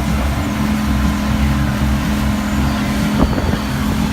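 Motorboat engine running steadily under way, with wind noise on the microphone and a brief knock about three seconds in.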